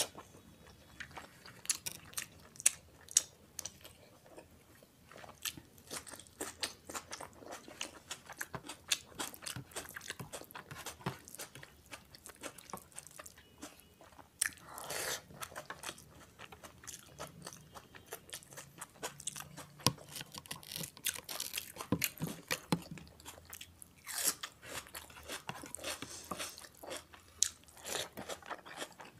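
A person chewing and biting mouthfuls of rice and mutton keema eaten by hand, with many sharp wet mouth clicks. Now and then fingers gather rice on the plate.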